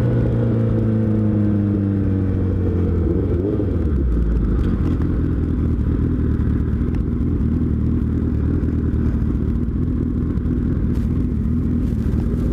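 Suzuki Hayabusa's inline-four engine winding down as the bike slows over the first few seconds, then idling steadily.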